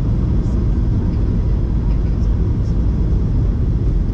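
Steady low rumble of jet engine and airflow noise inside the cabin of a Ryanair Boeing 737 airliner.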